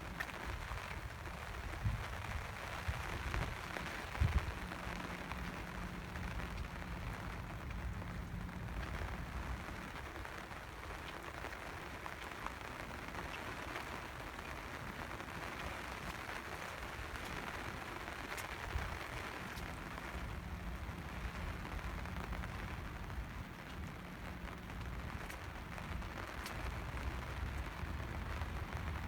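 Steady rain falling, an even hiss, over a low rumble, with a couple of brief thumps about two and four seconds in.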